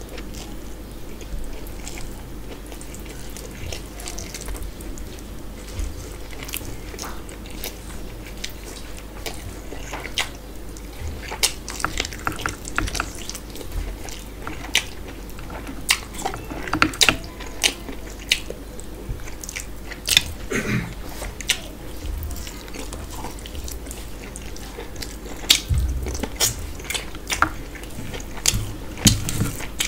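Close-miked eating sounds: a man chewing mouthfuls of rice and mutton curry eaten by hand, with many short, irregular wet mouth clicks. Between mouthfuls his fingers mix rice and curry on a steel plate.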